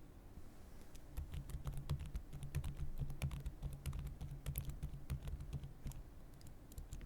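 Typing on a computer keyboard: a quick run of key clicks starting about a second in and easing off near the end.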